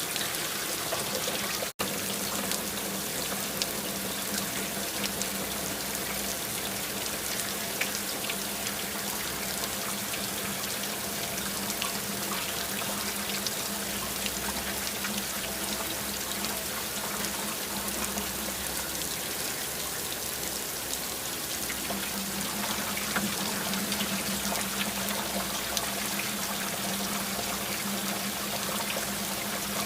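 Steady rain falling, a dense even hiss of fine drop taps with some running water. The sound drops out for an instant about two seconds in.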